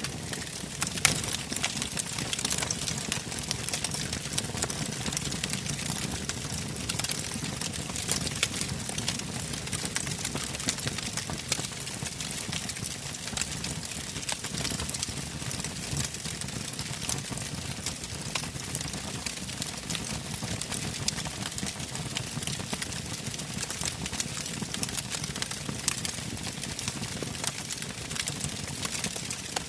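Wood campfire burning, crackling steadily with frequent sharp pops and snaps over a low, steady rush of flame.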